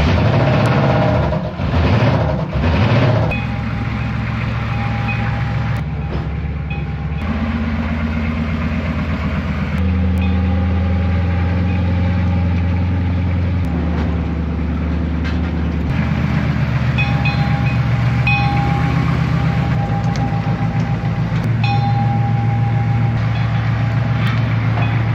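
6.2-litre diesel engine of a trackless ranch train running under way, its pitch stepping up and down several times as it pulls along.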